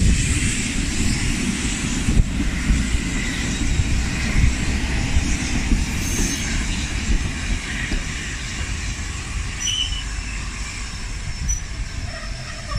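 Passenger coaches of a steam-hauled train rolling past along the platform: a steady low rumble of wheels on rail that slowly fades as the train pulls away.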